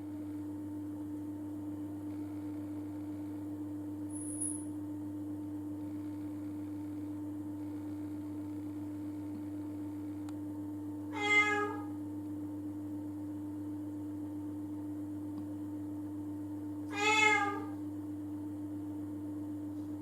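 MAX BS-141H-2 bathroom ventilation dryer's fan running with a steady hum, its motor bearings freshly replaced to cure an abnormal noise. A cat meows twice, about halfway through and near the end.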